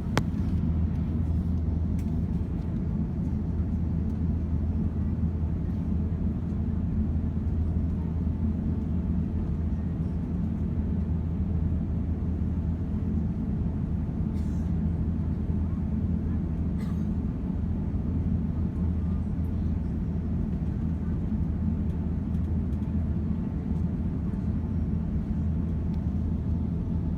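Steady low drone inside the cabin of an Airbus A350-900 in flight: the noise of its Rolls-Royce Trent XWB engines and the airflow, heard through the fuselage, with a few faint clicks.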